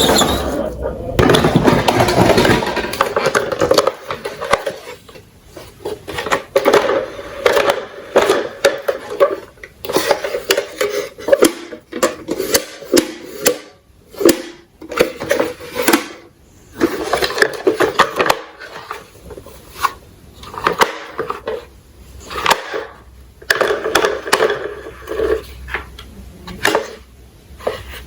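Toy garbage trucks rolling and clattering, with many irregular knocks and rattles.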